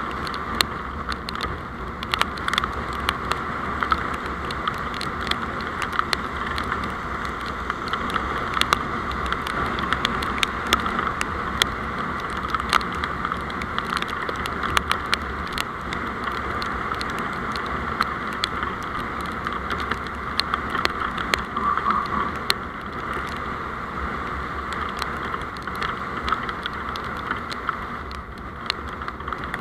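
Steady running noise of a moving road vehicle, heard through a dashcam, with many short sharp ticks scattered throughout.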